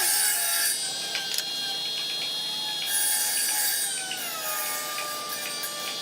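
A tool scraping on wood in repeated long strokes, like sawing or rasping by hand, over a steady whine that drops slightly in pitch about four seconds in.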